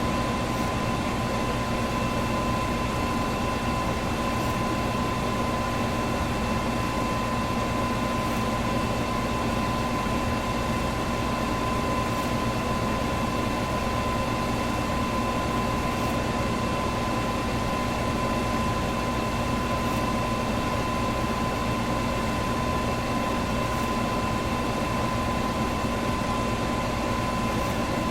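Electric fan running steadily: an even rush of air with a constant motor hum and a thin steady whine, plus a faint tick about every four seconds.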